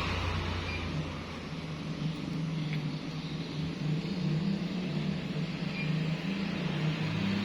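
Steady hiss of falling rain, with a low steady hum running underneath.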